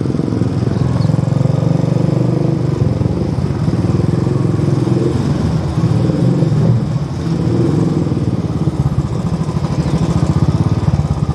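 Royal Enfield Bullet 500's single-cylinder four-stroke engine running at low riding speed, a steady beat of rapid even firing pulses close to the microphone, with a brief dip in level about seven seconds in.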